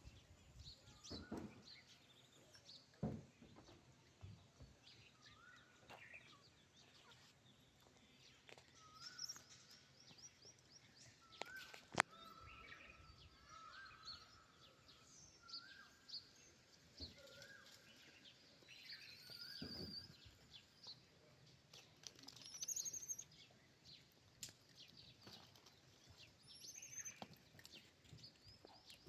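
Faint birds chirping and calling, with many short calls scattered throughout, and a few soft knocks and one sharp click partway through.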